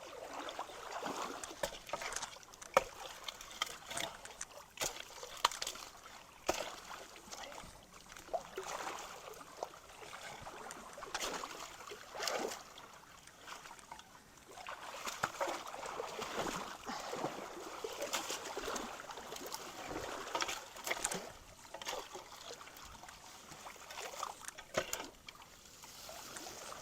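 Creek water splashing and trickling, with frequent irregular splashes and knocks as logs and debris are moved by hand in the water.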